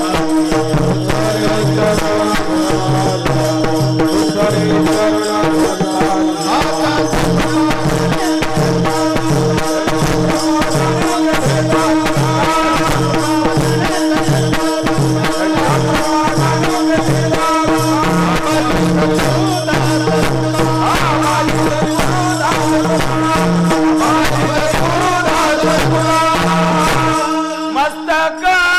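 Devotional kirtan music without words: a steady held drone with a repeating drum pattern and fast, dense cymbal-like strokes, breaking off briefly near the end.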